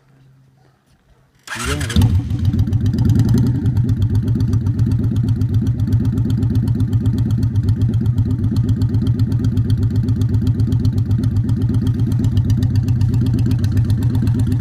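Motorcycle engine starting about a second and a half in, then running steadily with a fast, even pulse.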